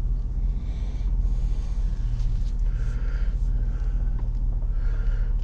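Steady low engine and road rumble of a vehicle heard from inside the cab while driving slowly.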